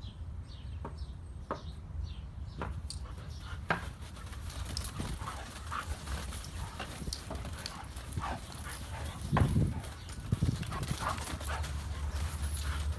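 Dogs playing rough, their paws and claws tapping and scuffling in quick irregular steps, with a louder thump about nine and a half seconds in.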